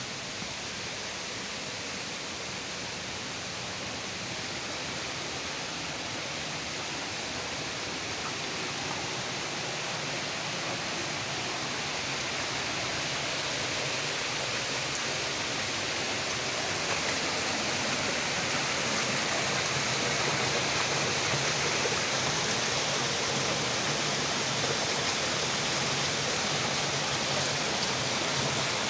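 Waterfall rushing, a steady spray of water noise that slowly grows louder.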